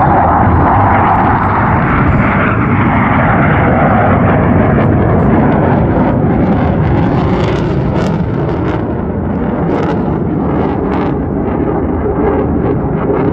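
Loud jet noise from military jet aircraft flying the display. It is strongest in the first couple of seconds, eases slightly, and then carries a ragged crackle through the second half.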